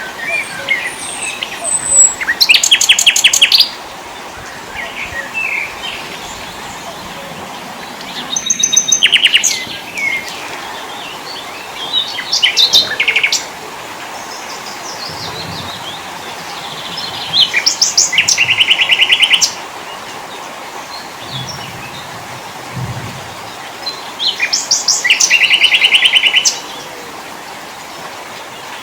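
Small songbird singing: five short, rapid trills of evenly spaced notes, repeated roughly every five seconds, with softer chirps between them, over a steady hiss.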